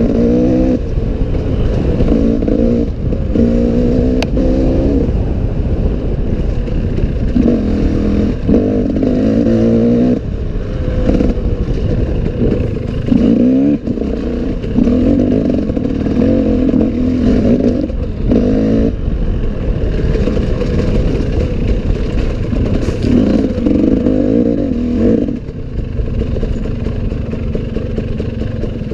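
Enduro dirt bike engine, ridden along a forest trail, its revs rising and falling in short repeated bursts as the throttle is worked, a little quieter near the end.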